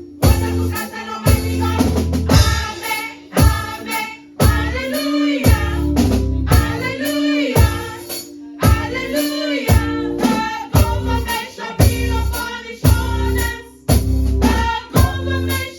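Choir singing a Christmas praise song with band accompaniment: drum kit with a steady beat and tambourine.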